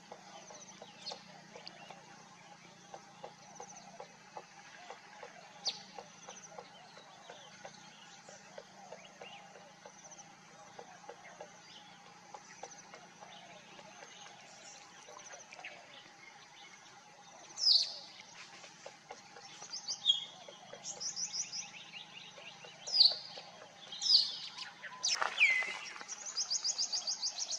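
Birds calling: after a stretch of faint background with light ticking, several loud, short, high-pitched chirps sweeping downward begin about two thirds of the way in, followed by a longer falling call and then a fast, high trill near the end.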